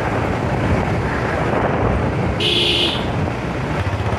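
Wind buffeting the microphone over the steady running noise of a motorcycle on the move, with a brief beep about two and a half seconds in.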